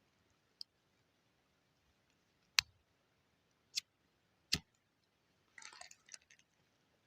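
Sharp clicks from handling a homemade lighter built from a 12.7×108 cartridge case: four separate clicks, two of them louder knocks, then a short scratchy rustle about six seconds in.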